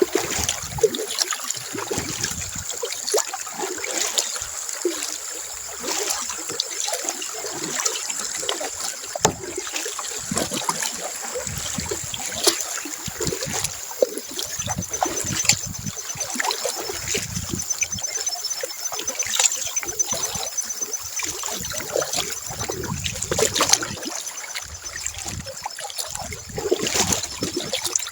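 Water trickling and splashing around a kayak, with many small irregular splashes as a paddle dips and drips. A faint, fast, high trill runs through the middle.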